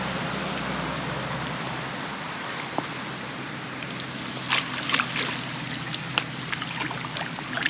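Steady hiss of rain falling, with a low hum that fades out about a second in. In the second half come several sharp splashes and knocks, as a large Siamese carp is brought into the landing net.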